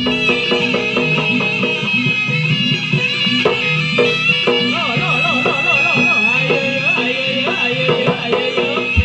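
Jaranan gamelan music: a shrill reed trumpet (slompret) plays a sustained, wavering melody over steady metallophone and gong-chime tones, with the deep drums dropping out until the very end.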